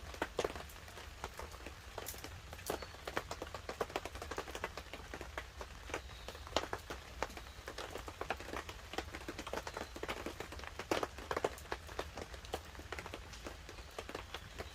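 Wood campfire crackling with dense, irregular snaps and a few louder pops, over light rain pattering on a tarp.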